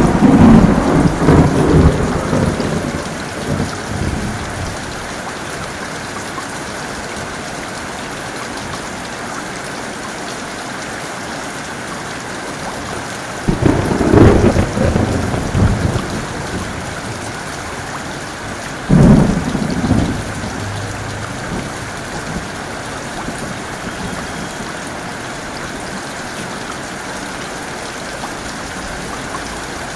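Heavy rain falling steadily, with three loud rolls of thunder: one at the start rumbling for about four seconds, another about halfway through, and a shorter one a few seconds after that.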